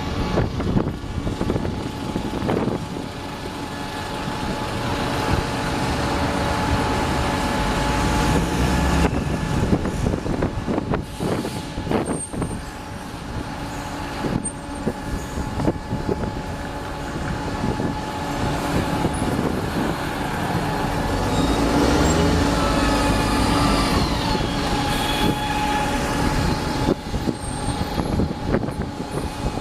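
A large diesel vehicle's engine running close by, swelling and easing in loudness, with scattered clicks and a brief falling squeal a little after twenty seconds in.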